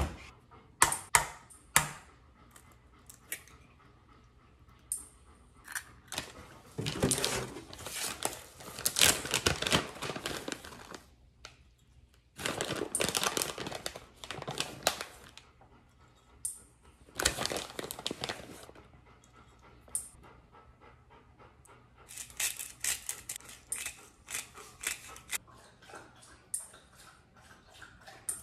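Breakfast being made by hand: sharp clicks and taps of eggs and kitchenware, several stretches of rustling as a bag of shredded cheese is handled and poured into a glass measuring cup of egg, and a dog panting.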